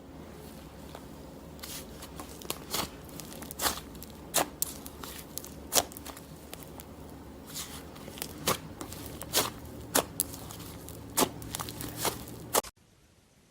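Slime being handled, with irregular sharp pops and clicks every half second or so over a low background; the sound cuts off suddenly near the end.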